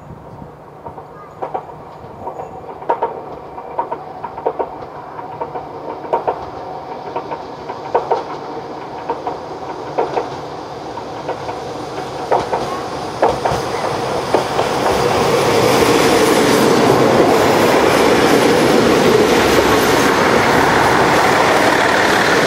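KiHa 8500 series diesel railcar arriving: its wheels clack sharply over the rail joints as the rumble grows louder. From about fifteen seconds in it turns into a loud, steady rush of wheels and engine as the railcar runs past close by.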